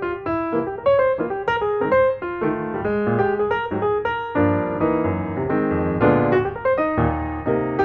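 Solo piano music: a quick melody of struck notes over chords, with fuller held chords about five to seven seconds in.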